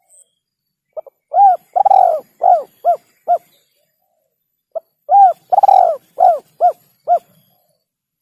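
Spotted dove (tekukur) cooing: two call phrases about four seconds apart. Each phrase is a short soft note or two, then a coo, a long drawn-out coo, and three shorter coos.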